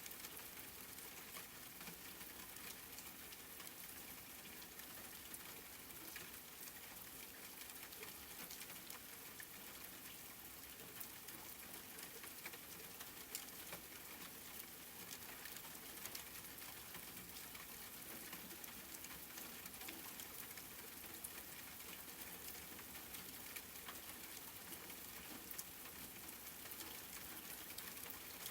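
Steady, quiet rain: an even hiss with many separate drops ticking throughout.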